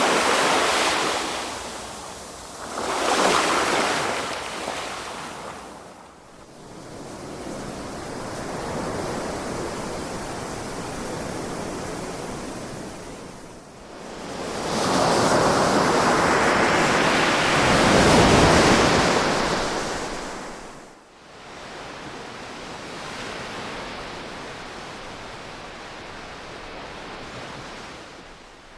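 Ocean waves breaking and washing on a shore: a steady rushing that swells into surges, two close together at the start and a longer, louder one past the middle, easing back to a softer wash between them.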